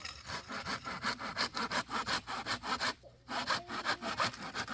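Hand saw cutting through wood in quick, even back-and-forth strokes, about four or five a second, pausing briefly about three seconds in before sawing on.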